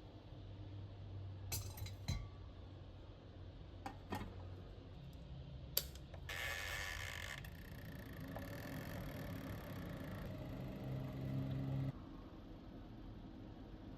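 Kitchen handling sounds: several sharp clinks and knocks of utensils and containers, a short rushing noise about six seconds in, and a low steady hum that cuts off suddenly near the end.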